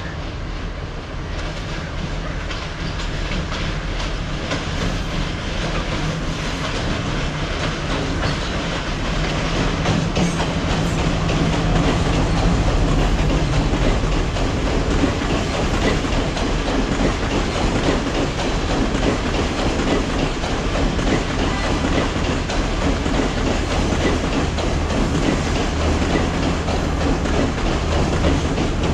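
Diesel passenger train passing, its engine droning steadily under the clatter of carriage wheels over rail joints and points. It grows louder over the first dozen seconds, then holds steady.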